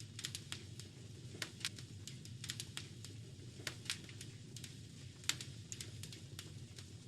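Wood fire crackling in a fireplace: irregular sharp pops and snaps over a low steady rumble of the burning fire, with one louder pop about five seconds in.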